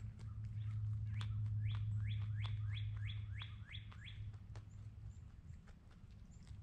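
A songbird sings a quick run of about eight whistled notes, each falling in pitch, over a steady low hum, with faint sharp clicks scattered throughout.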